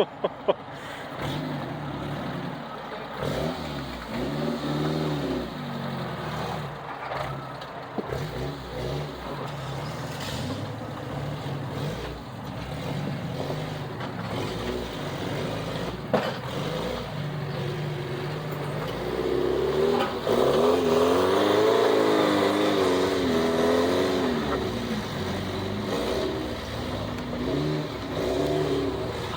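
Off-road vehicle engine revving up and down while crawling over rocks, loudest about twenty seconds in, with a few sharp knocks at the very start.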